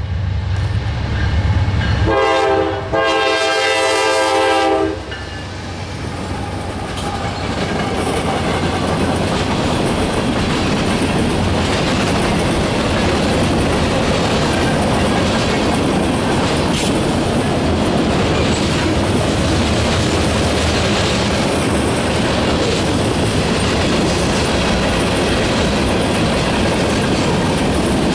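Norfolk Southern mixed freight train passing. The diesel locomotives rumble by, and one horn blast starts about two seconds in and lasts about three seconds. After that the freight cars roll past with a steady clatter of wheels on the rails.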